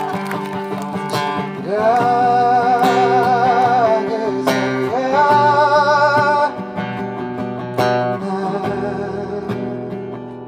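Live acoustic guitar with a voice singing two long held notes with vibrato, the music fading toward the end.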